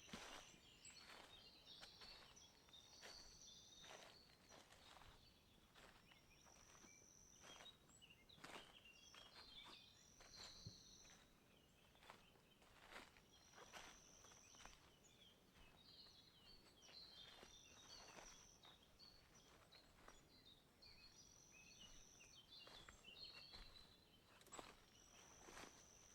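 Faint footsteps along a forest path. About every three to four seconds a small songbird gives a high, thin, held note followed by brief twittering.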